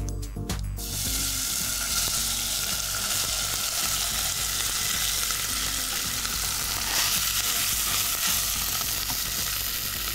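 Cooked rice sizzling steadily in a kadhai of hot ghee with a whole-spice and cashew tempering as it is spooned in from a bowl with a wooden spoon.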